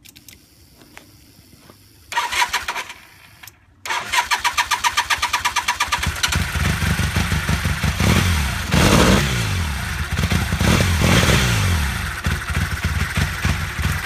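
1982 Honda CM450 parallel-twin engine, newly converted from carburettors to Ecotrons fuel injection, being started: the starter cranks briefly, stops, then cranks again with rapid even pulses until the engine catches about six seconds in. It then runs with several throttle blips, the pitch rising and falling.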